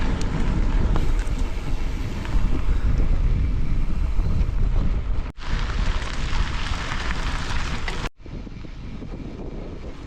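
Wind buffeting the microphone, a loud low rumble over a hiss. It breaks off abruptly twice, about five and eight seconds in, and after the second break it carries on as a quieter, steadier wind noise.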